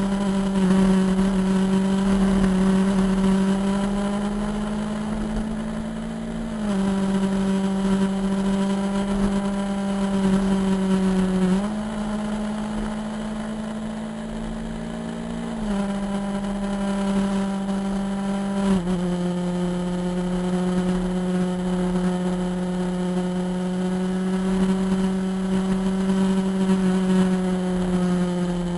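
Motorcycle engine running at steady cruising revs, its note shifting slightly up or down in small sudden steps a few times.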